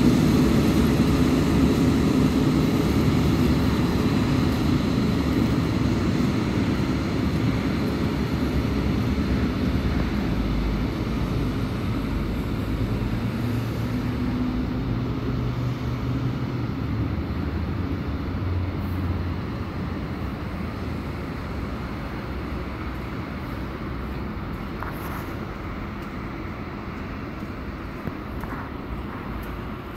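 Train running beneath and pulling away along the track, its low rumble fading steadily as it recedes.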